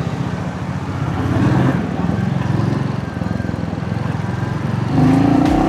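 Motorcycle engine running in traffic, its pitch rising as it speeds up near the end.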